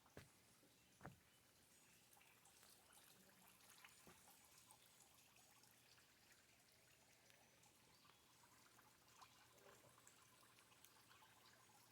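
Near silence: faint trickling water, with two soft clicks in the first second.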